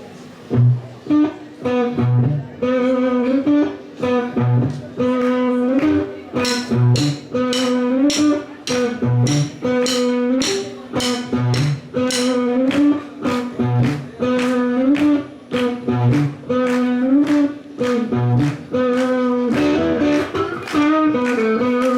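Live band playing a blues intro: a guitar riff repeating over bass notes, with a steady drum beat joining about six seconds in.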